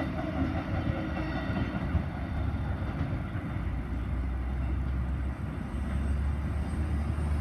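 Freight train running away along the rails just after its last wagon has passed: a steady rumble of wagon wheels on the track, with faint high squealing tones that fade in the first couple of seconds.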